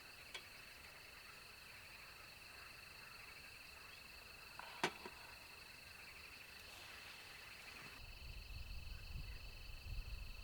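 Crickets trilling steadily, a continuous pulsing high-pitched chirr. A sharp click sounds near the middle, and a low rumble builds toward the end.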